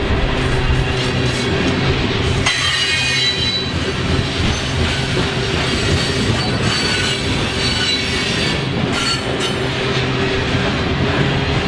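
Freight train of covered hopper cars rolling past at close range: a steady rumble of steel wheels on the rails, with a high wheel squeal coming in about two and a half seconds in.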